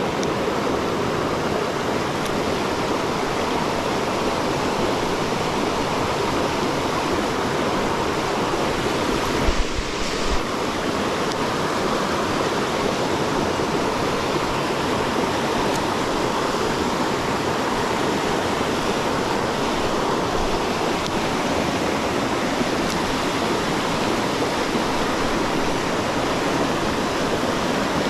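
Mountain stream water rushing steadily, with a brief bump about ten seconds in.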